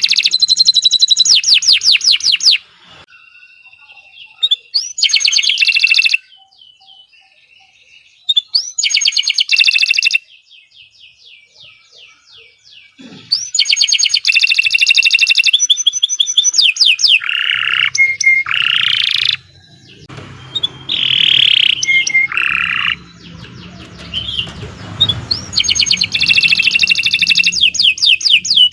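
Domestic canary singing: long phrases of rapid rolling trills and fast repeated high chirps, coming in bursts of one to three seconds with short pauses between them.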